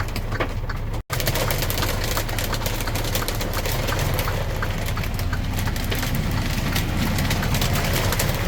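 Hail pelting the truck's windshield and cab in a rapid, irregular patter of sharp ticks over the steady low hum of the truck's engine. The sound drops out for a moment about a second in.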